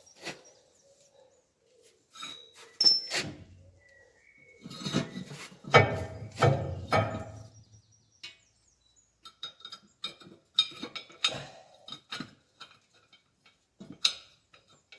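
Metal knocks, clunks and clinks as a heavy spreader drive shaft is handled on an axle stand and pushed through a hole in the frame, with a run of heavier knocks about five to seven seconds in and lighter clinks after.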